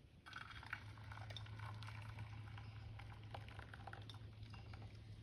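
Lead heating in a pan for a second pour: faint crackling and sizzling ticks over a low steady hum.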